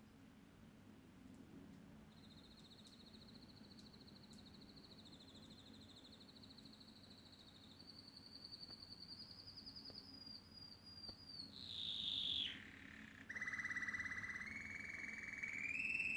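Canary singing: long, rapid trills, each held on a near-steady high pitch, starting about two seconds in. Near the end the song drops to a lower, louder rolling trill that steps up in pitch.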